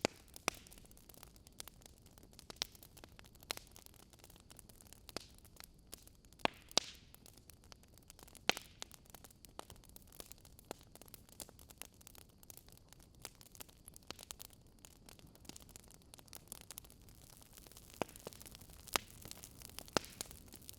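Wood fire crackling: irregular sharp pops and snaps of burning logs over a soft steady hiss, with a few louder pops scattered through.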